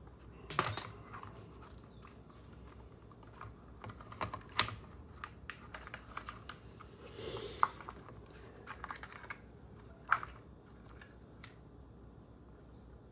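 Scattered small plastic clicks and taps from RC car parts and wiring being handled and pulled free. A brief rustle comes a little past halfway, and a few sharper clicks come near the middle and about three-quarters of the way through.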